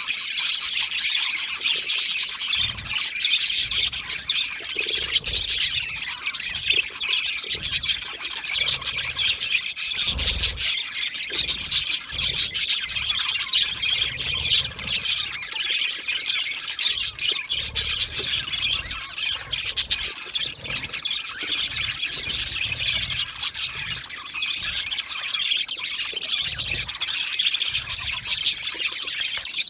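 A flock of budgerigars chirping and warbling without a break, many calls overlapping into a continuous chatter.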